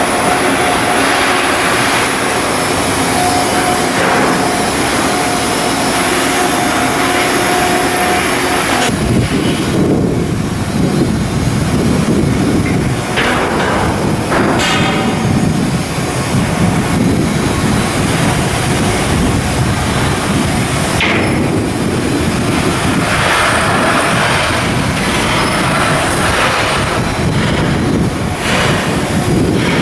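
Shipyard steel-work noise on a ship's building berth: machinery running steadily, with a few sharp metal knocks. About nine seconds in, the sound shifts to a heavier, lower rumble.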